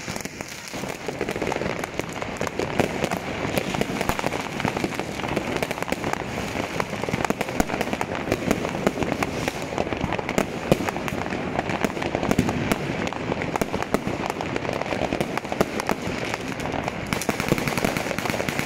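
Fireworks and firecrackers going off without a break: a dense, continuous crackle of many overlapping bangs and pops.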